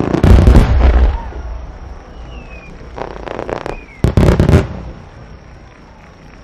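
Starmine fireworks shells bursting with dense crackling in the first second, another crackling cluster about three seconds in and a loud cluster of bangs about four seconds in, then dying away.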